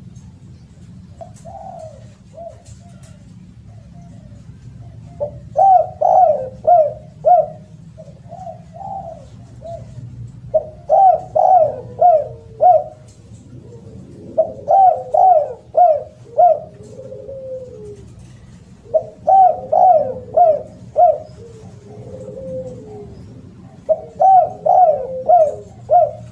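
Spotted dove (derkuku) cooing loudly in repeated phrases, each a quick run of four or five short coos trailing into a lower drawn-out note, about every four to five seconds.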